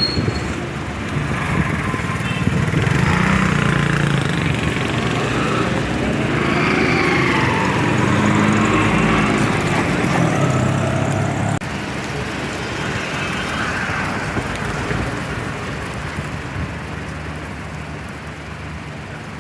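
Street traffic noise: vehicle engines running and passing, with an abrupt change in the sound about twelve seconds in.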